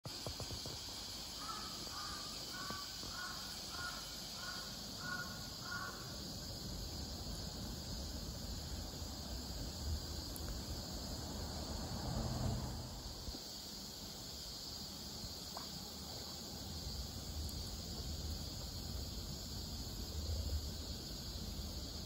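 Outdoor ambience: a bird gives a run of about eight short, harsh calls, roughly two a second, over the first six seconds or so. A steady high-pitched drone and a low rumble run underneath throughout.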